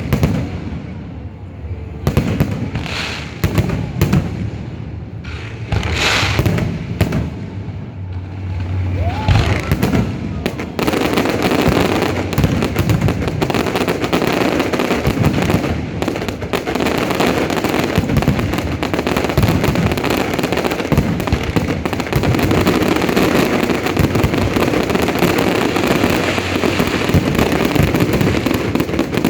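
Aerial fireworks display: separate booming bursts for about the first ten seconds, then a dense, continuous barrage of crackling and bangs that runs on without a break.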